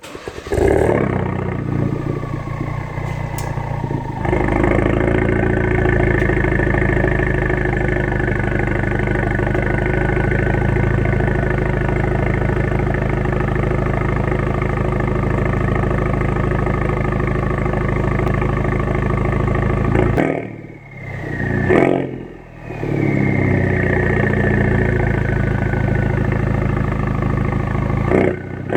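Ford Focus RS 2.3-litre turbocharged four-cylinder starting up through a Scorpion aftermarket exhaust, then idling steadily. The note dips and swings in pitch twice about 20 seconds in, then settles back to idle.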